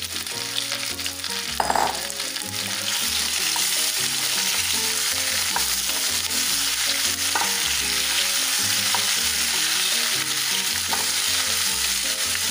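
Raw mango slices sizzling in hot mustard oil in a kadai while being stirred, with a few light knocks of the spatula against the pan. The sizzle grows louder about three seconds in.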